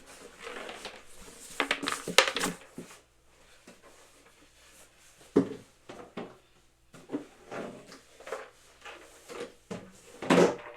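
Handling noises as boxing equipment is unpacked: scattered knocks, scrapes and rustles, with a louder clatter about two seconds in and another near the end.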